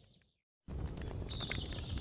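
Outdoor campfire crackling with sharp pops over a low rumble; the sound fades and drops out completely for about a third of a second, then comes back. About halfway through, a small bird starts a quick, high, repeated chirping trill.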